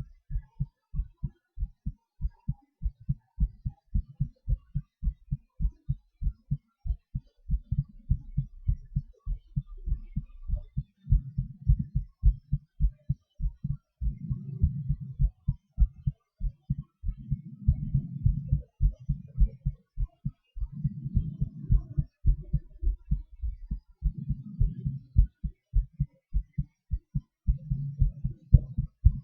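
A human heartbeat heard through a chest microphone, beating fast and evenly. From about eleven seconds in, a low rushing swell rises and falls every three to four seconds under the beats, the sound of deep breaths heard through the chest.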